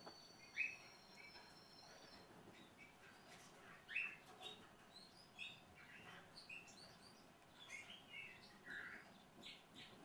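Small songbirds chirping faintly: scattered short, high chirps and calls, the loudest about four seconds in. A thin, steady high whistle sounds over the first two seconds.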